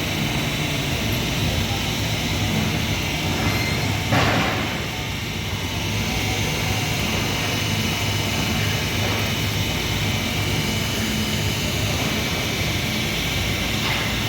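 Steady din of flange-forging workshop machinery with a low hum. One louder, noisy burst comes about four seconds in and dies away over about a second.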